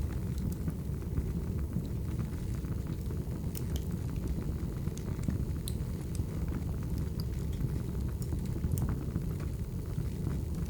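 Firewood burning, with a steady low rumble of the fire and scattered sharp crackles and pops throughout.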